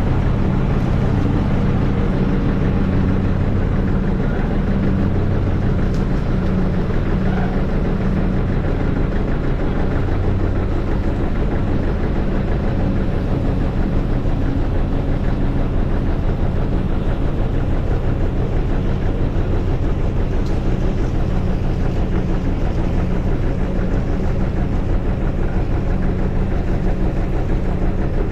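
Tractor engine running steadily at a constant speed, with no rise or fall in pitch.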